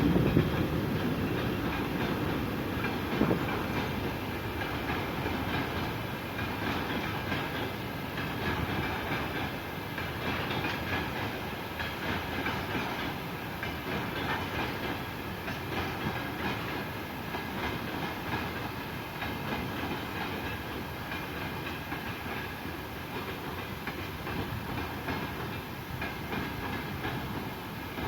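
Railway train running past on the track, with a continuous rumble and clatter of wheels on rail that is loudest at the start and then eases slightly.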